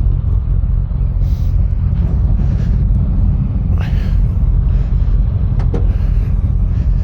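Harley-Davidson CVO ST's Milwaukee-Eight 121 V-twin running with a steady low rumble.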